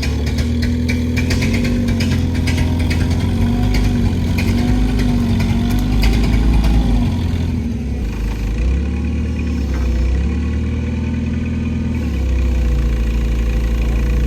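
A heavy engine runs steadily, its pitch wavering up and down as the load on it changes. Metallic clicking and rattling over roughly the first half.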